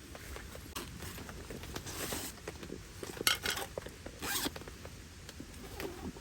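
A zipper pulled in three short rasping strokes, over scattered rain drops pattering on the tent.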